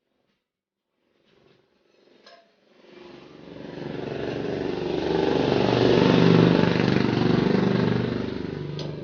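Motorcycle engine running, swelling louder over a few seconds to a peak about two-thirds of the way in, then easing off; a click comes just before it.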